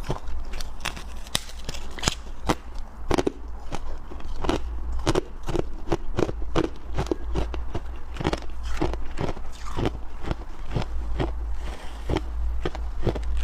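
Close-miked chewing of freezer frost and soft powdery ice: an irregular run of crisp crunches, several a second, over a low steady hum.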